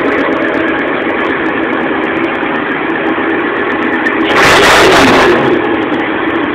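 Mid-engined sports car's engine idling steadily while it warms up, then revved hard once about four seconds in, for about a second, before dropping back to idle.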